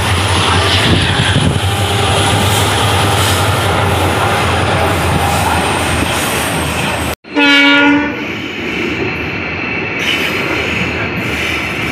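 Steady rumble and rush of a passenger train running along the track, heard through an open coach window. About seven seconds in the sound breaks off abruptly, then a short, loud train horn blast sounds, and the running noise carries on.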